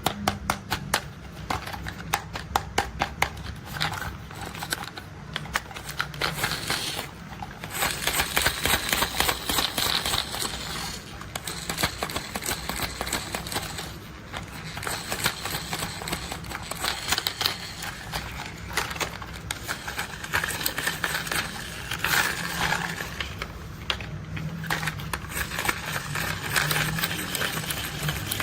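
Plastic toy construction vehicles being handled, tapped and rolled: a dense run of quick clicks and taps, with stretches of rattling.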